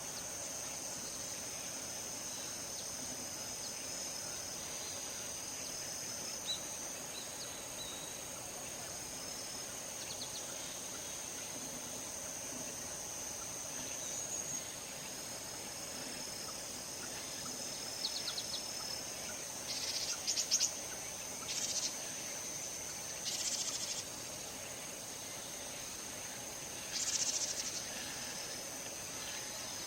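Crickets and other insects trilling steadily in a rice field on two high pitches, with several louder short raspy chirps breaking in during the second half.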